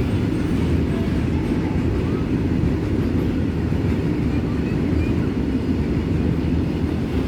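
Freight train of petrol tank wagons rolling past on the track, a steady, even rumble with no horn.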